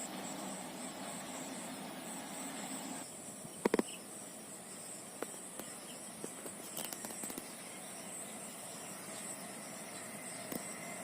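Insects chirping steadily in a high, pulsing trill over open-air background hiss. About four seconds in there are two sharp clicks, with a few fainter clicks later on.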